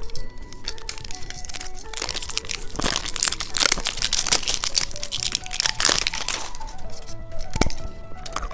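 Plastic candy packaging crinkling and crackling in irregular handling noises, over light background music.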